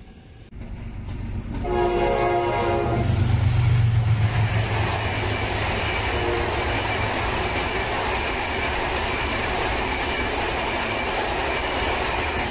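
Passenger train passing close at speed: one horn blast of about a second and a half near the start, a deep engine rumble as the locomotive goes by, then a steady rush of coach wheels with clickety-clack over the rail joints.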